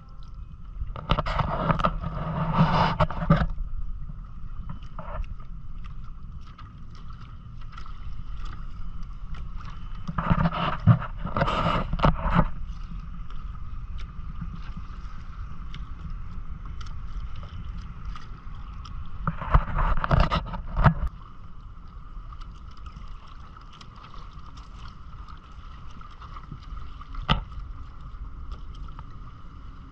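Water and wind noise on a Hobie Island sailing kayak under way, a steady low rumble with a faint steady high hum over it. Three louder swells of splashing and rushing noise come about ten seconds apart.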